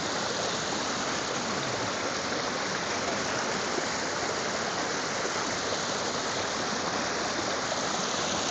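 Rushing stream: a steady, unbroken rush of running water.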